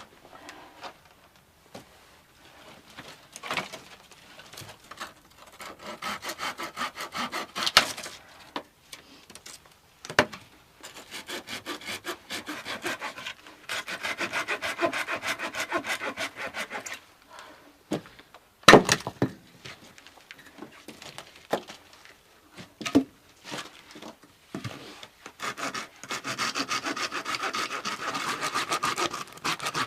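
Wood being sawn by hand, in bouts of quick, even back-and-forth strokes with short pauses between. A few sharp knocks come between bouts, the loudest about two-thirds of the way through.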